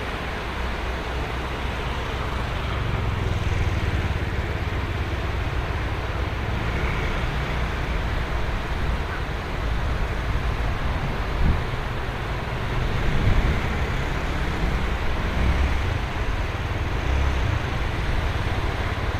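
Ocean surf washing steadily onto a sandy beach, a continuous rush with a low rumble, swelling a little louder a few times around the middle.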